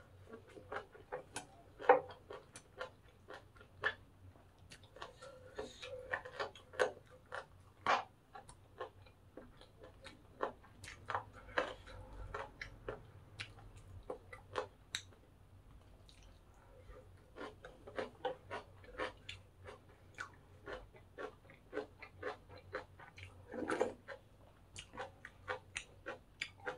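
Close-miked chewing of crunchy food, crispy pork cartilage fried rice and mustard-leaf kimchi, heard as sharp, irregular crunches and clicks a few times a second.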